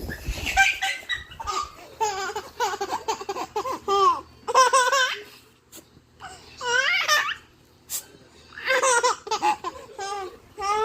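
Baby laughing in several bouts of high-pitched, wavering laughter with short pauses between them.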